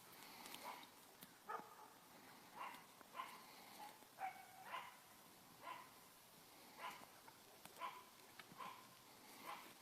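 A dog barking faintly and repeatedly, with short barks about once a second.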